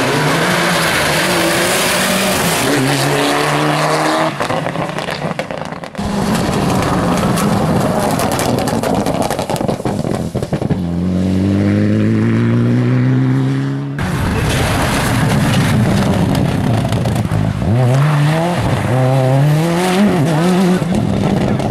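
Rally cars at full throttle on a stage, their engines revving hard and rising in pitch, then dropping at each gear change. There are three separate passes: the middle one holds a long, steady climb in pitch, and the last one has quick rises and falls near the end.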